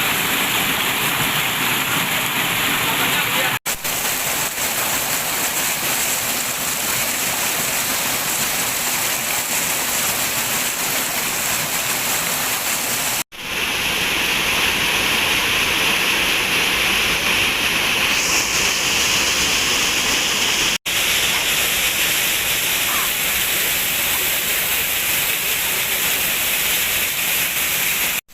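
Waterfall water pouring and splashing in a steady, loud rush, cutting out abruptly for an instant three times where the recording jumps between clips.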